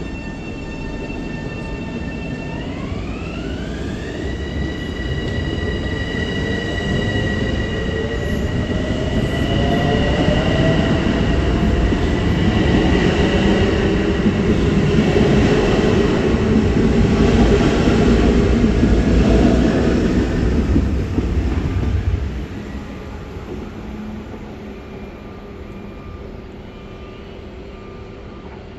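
Long Island Rail Road train passing on the rails: the rumble builds, is loudest for several seconds and then drops off as the train goes by. Its motors give a high whine that rises in pitch about three seconds in.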